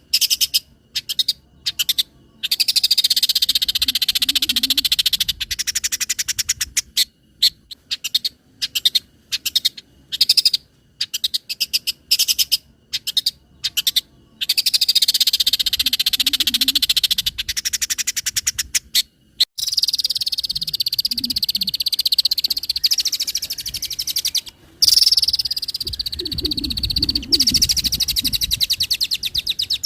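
Long-tailed shrike singing: long, fast rattling, chattering trills high in pitch, broken by short call notes and brief pauses, with a few lower croaking notes now and then.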